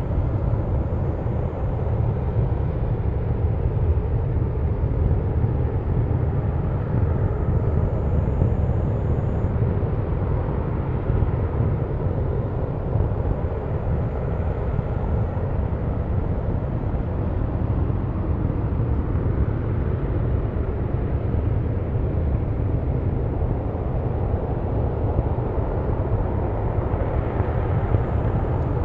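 LE-9 liquid-hydrogen and liquid-oxygen rocket engine running on its test stand during a static firing: a steady, deep rumble that does not change.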